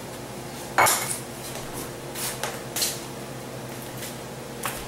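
A kitchen utensil knocks once, sharply, against a stainless steel stand-mixer bowl about a second in. A few fainter taps follow over a steady low hum.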